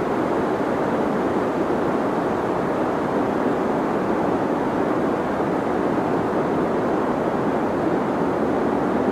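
Deep white noise for sleep: a steady, unbroken rushing hiss, weighted toward the low-middle range with little high-pitched hiss on top.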